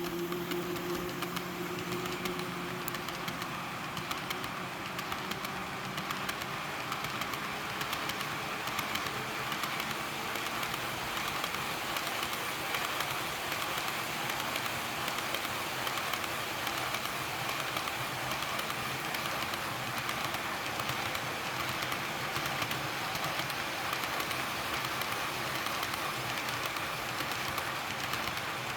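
Model train pulling a long rake of Taki tank wagons, its wheels running steadily over the track with a dense stream of small clicks from the rail joints. A low hum fades out over the first few seconds.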